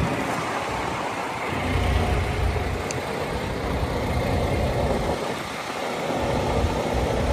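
Semi truck driving slowly on a snow-covered highway: steady engine rumble and road noise.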